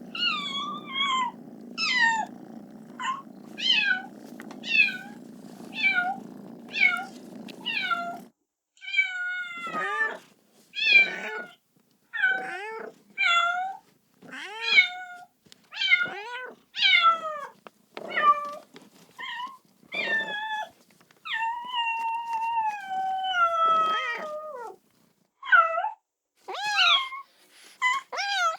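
Kitten meowing over and over, calling for its mother: short high-pitched meows about one a second, most falling in pitch, with one longer drawn-out meow about two-thirds of the way in. A steady low hum lies under the first eight seconds and cuts off suddenly.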